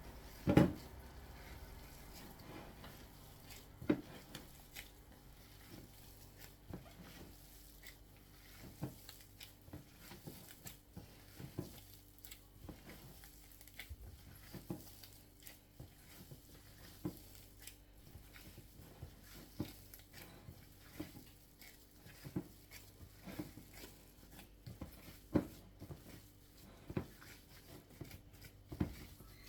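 Hands mixing and pressing a mashed potato and chicken mixture in a bowl: soft, irregular pats and squishes, with a sharper knock against the bowl about half a second in.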